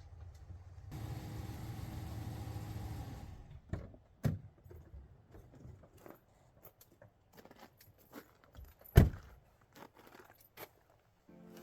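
A vehicle engine running with a steady low rumble that stops about three and a half seconds in. Scattered light clinks and knocks follow, with one loud thump about nine seconds in.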